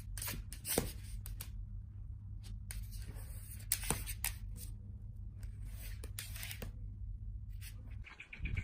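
Soft rustling and scattered light clicks, like a blanket being handled and tucked around a pet, over a steady low hum.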